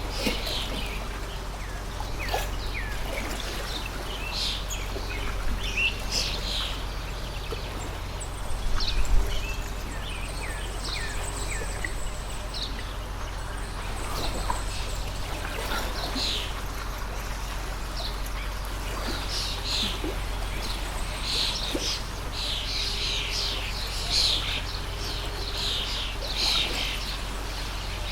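Several small birds chirping and calling over the steady rush of a flowing stream, with a constant low hum underneath. A brief low thump comes about nine seconds in.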